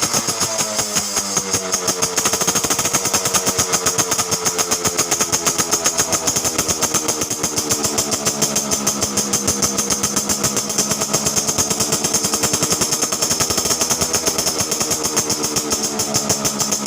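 Yamaha RX King's two-stroke single-cylinder engine running at idle through an aftermarket Alfa-type exhaust silencer, a rapid even beat whose pitch drifts slightly up and down.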